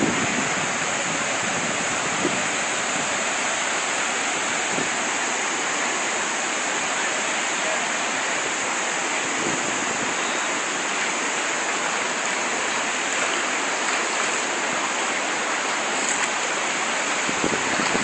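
Fast-flowing floodwater rushing steadily and without a break.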